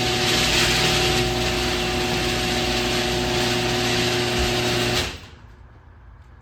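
Audi TT's 3.2 VR6 engine running at a steady speed, then cutting off abruptly about five seconds in.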